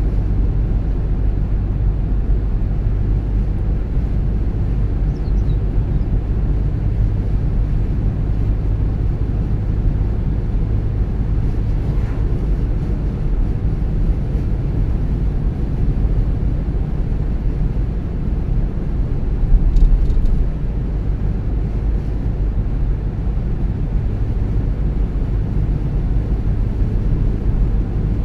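Car driving on the road: a steady low rumble of engine and tyre noise, with a brief louder swell about two-thirds of the way through.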